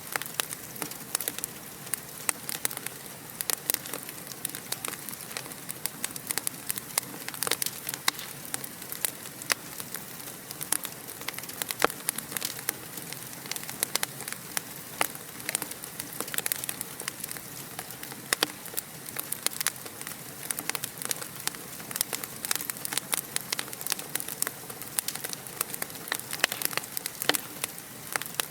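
Wood fire crackling in a fireplace: a steady soft hiss with frequent sharp, irregular pops and snaps.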